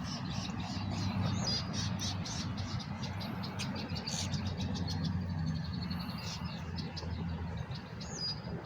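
Many small birds chirping and calling in quick, short notes, over a steady low hum.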